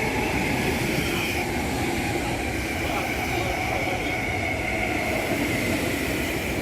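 Commuter train running, a steady rumble with a high whine that drifts slightly lower in pitch.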